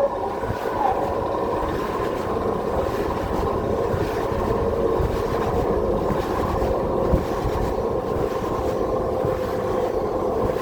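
Cabin running sound of a Keisei 3700 series electric train: a continuous rumble of wheels on rail, with a steady hum from the GTO-VVVF traction equipment held at an even pitch.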